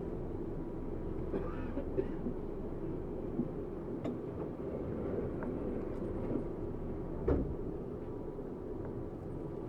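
Interior sound of a Tokyu 7700-series electric train car: a steady low rumble with a faint steady tone and occasional short clicks and knocks, one louder knock about seven seconds in.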